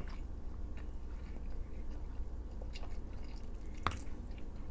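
A person chewing food close to the microphone, with small wet mouth clicks and one sharper click a little before the end.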